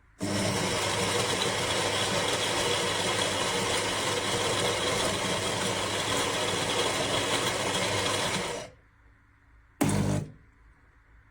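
Philips Baristina espresso machine running: a steady mechanical whirr with a low hum starts suddenly, runs about eight and a half seconds and cuts off, followed a second later by a brief, loud buzz.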